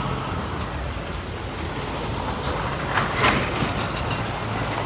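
Motor vehicle engine running with a steady low hum under a broad rushing noise, swelling louder for a moment about three seconds in.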